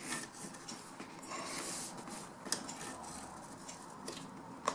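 Upholstery cover material being handled and marked around the seat's bottom edge: quiet scratching and rustling, with a sharp click about two and a half seconds in and another near the end.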